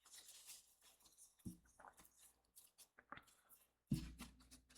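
Faint handling of paper: cardstock strips rustling and being pressed down while they are glued, with soft knocks on the table about one and a half and four seconds in.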